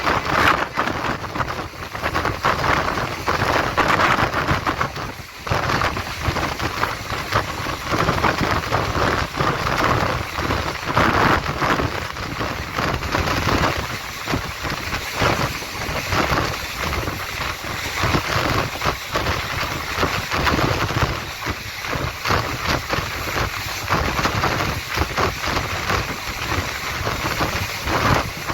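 Train running on the track: a steady rumble with the irregular clatter of wheels over the rails.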